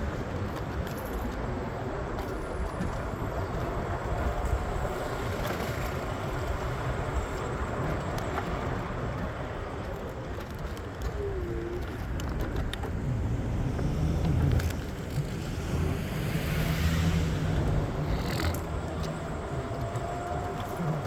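Steady rumble of vehicle traffic, with a few faint short squeals and a swell in the low rumble about two thirds of the way in.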